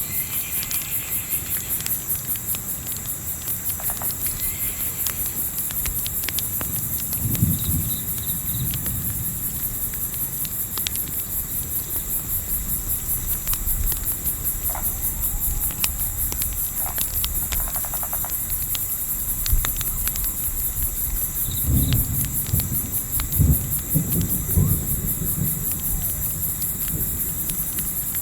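Crickets chirping in a steady, fast-pulsing trill, with scattered small crackles from a campfire. A few low thuds come about 7 seconds in and again around 22 to 25 seconds.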